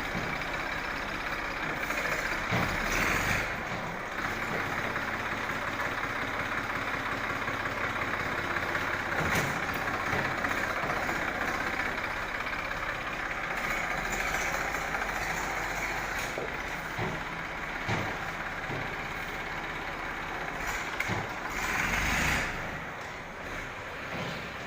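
Tractor engine running steadily, with a few brief knocks and two louder swells.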